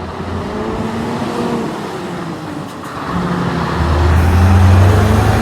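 Heavy truck engine passing on the road, its low drone swelling louder over the last couple of seconds, over steady traffic noise.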